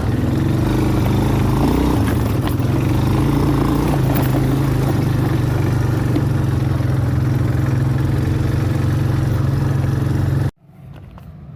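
ATV engine running steadily under load while climbing a hill. It stops suddenly near the end.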